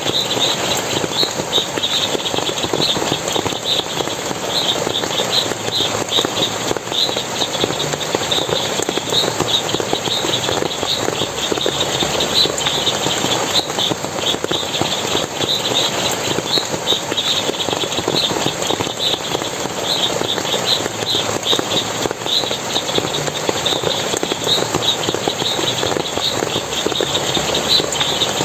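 Forest water splashing and running steadily, with a short high chirp repeating evenly, about two to three times a second, over it.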